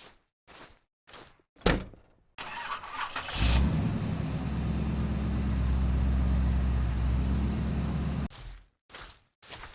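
An engine starts with a rising rush of noise, then runs steadily for about five seconds and cuts off suddenly. Short knocks come before it, with a sharp click just before the start, and again after it stops.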